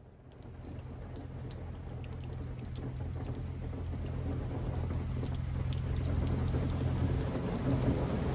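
Rain mixed with sleet falling and pattering, with many scattered ticks of drops hitting, growing steadily louder. A steady low hum runs underneath.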